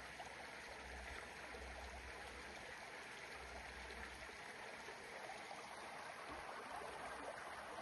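Creek water running steadily over stones, a faint even rush, with a low rumble that comes and goes during the first half.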